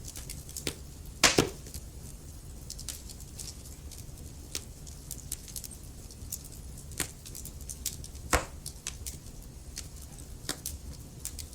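Wood fire in a fireplace: logs burning with a low steady rumble and frequent sharp crackles and pops, the loudest two in quick succession about a second in and another strong pop past the middle.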